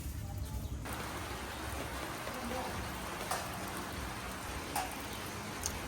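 A steady, even hiss that starts abruptly about a second in, with three short sharp ticks in the second half.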